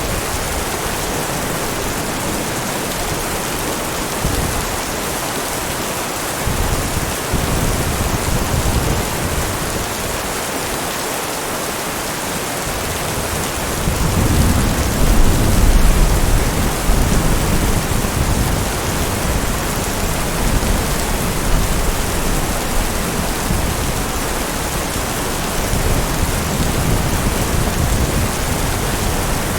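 Steady heavy rain falling, with low rolls of distant thunder rising under it a few times; the loudest rumble comes about halfway through.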